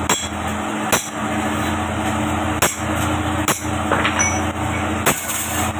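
Hammer blows on metal: five sharp strikes at uneven intervals, over a steady low machine hum.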